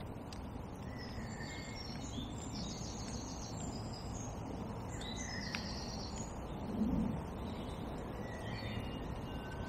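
Small birds chirping and singing in short high phrases over a steady outdoor background hiss, with a brief low bump about seven seconds in.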